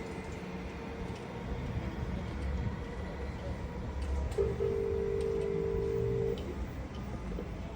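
Train rumbling at a station platform. About halfway through, a steady two-note train horn sounds for about two seconds.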